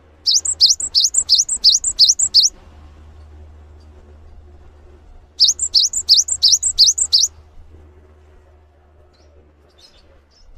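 A songbird repeating sharp, high chirps that each sweep upward in pitch, about three to four notes a second, in two bouts of roughly two seconds with a pause of about three seconds between them.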